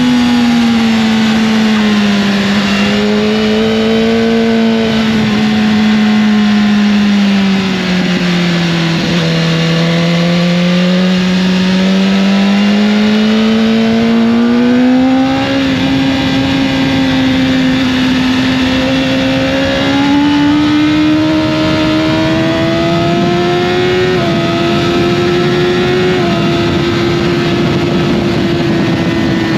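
Motorcycle engine running hard under a rider's load, its note sinking slowly, climbing again and holding higher, with a couple of quick steps in pitch near the end, over a rush of wind noise.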